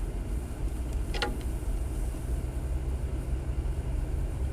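Jeep driving: steady low engine and road rumble, with a short crackle about a second in.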